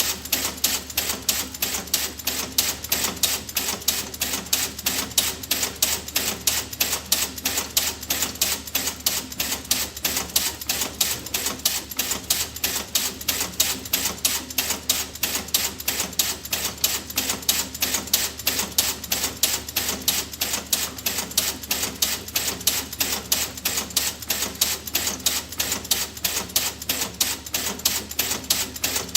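Steady, rapid mechanical ticking, even sharp clicks at about four a second.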